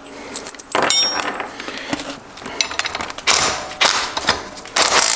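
Metal tools and transmission parts clinking and knocking as they are handled, with a short ringing metallic clink about a second in and a few brief scraping knocks later on.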